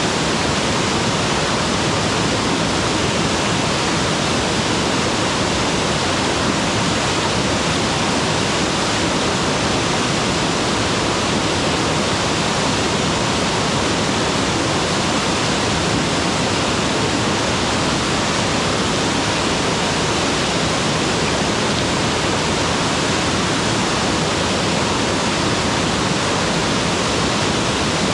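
Mountain waterfall: water pouring and splashing in a loud, steady rush that does not change.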